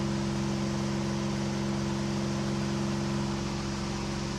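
KR2 light airplane's engine and propeller droning steadily in a climb, heard from the cockpit with a steady hiss of wind over it.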